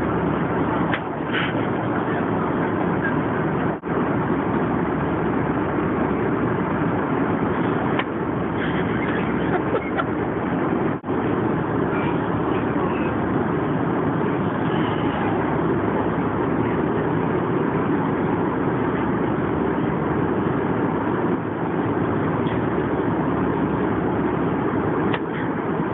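Steady roar of engine and air noise inside a passenger plane's cabin, with a few faint clicks; it cuts out for an instant twice, about four and eleven seconds in.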